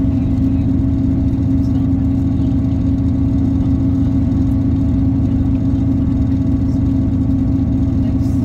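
Diesel multiple-unit train running at a steady speed, heard from inside the carriage: a constant low rumble with one strong held hum.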